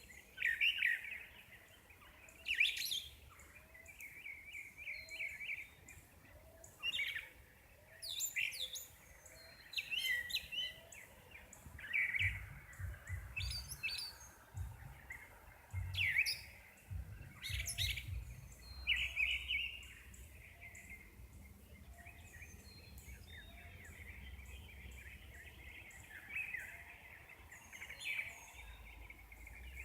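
Several birds chirping and singing in a dawn chorus, with repeated short calls and trills throughout. A low rumble comes and goes around the middle.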